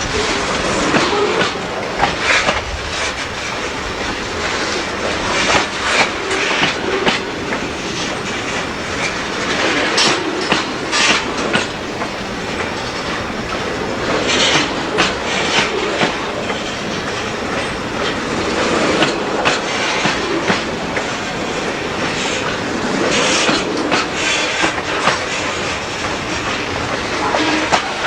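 Freight train cars rolling past, their wheels clattering over the rail joints.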